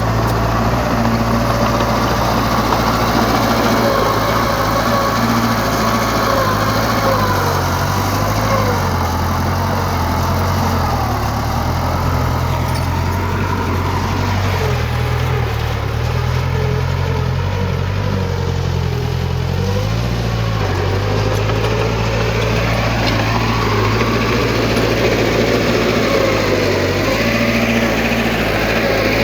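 Heavy diesel earthmoving machinery running steadily under load, its engine note wavering up and down as it works.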